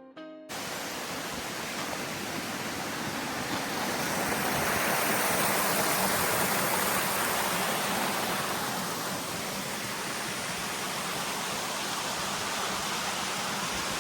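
Steady rush of falling water from a waterfall, swelling a little towards the middle. A few notes of strummed guitar music cut off just at the start.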